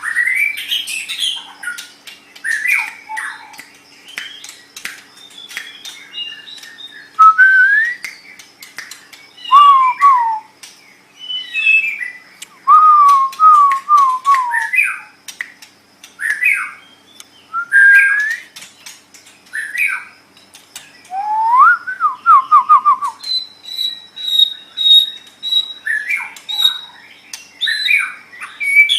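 White-rumped shama (murai batu) singing a varied song of loud whistled phrases: rising and falling glides, quick descending runs of notes, and a string of short even high notes near the end, mixed with sharp clicking notes.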